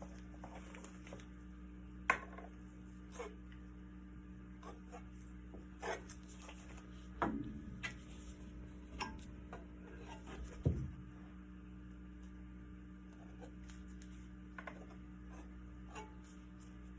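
Scattered light knocks, taps and rubbing from handling acrylic pour painting materials, over a steady low hum.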